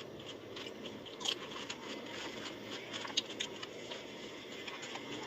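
Crisp pani puri shells being bitten and chewed: scattered sharp crackles over a steady background hiss, two of them louder, about a second in and about three seconds in.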